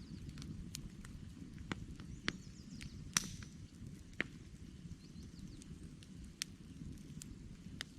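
Wood campfire crackling: irregular sharp pops and snaps over a low steady rumble of burning, the loudest pop a little past three seconds in.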